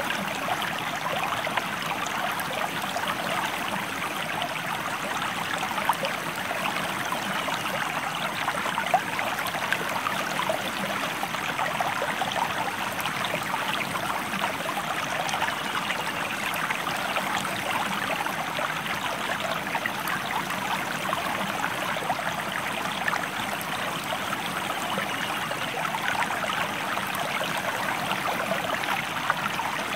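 Stream water flowing steadily, an even rushing and trickling with no change in strength.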